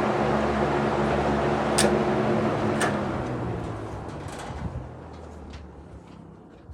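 Two vintage Fasco box fans, a model 200 and a model 2001, switched off from high and coasting down: the motor hum and the rush of the blades fade away steadily over several seconds. Two sharp clicks come about two and three seconds in, with fainter ticks as the fans slow.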